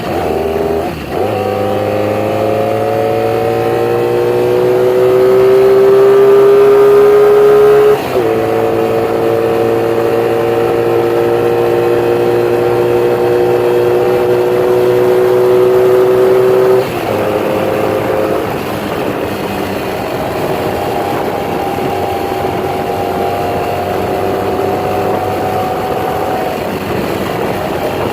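1982 Honda Magna's V4 engine breathing through new Emgo mufflers, pulling up through the gears. The revs climb from about a second in, dip briefly at a gear change about eight seconds in and again around seventeen seconds in, then hold fairly steady.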